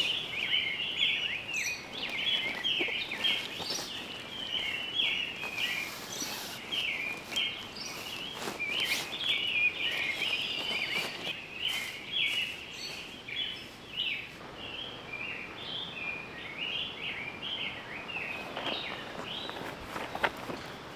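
Birds chirping continuously in many short, quick notes, with a few faint clicks and knocks, one sharper click near the end.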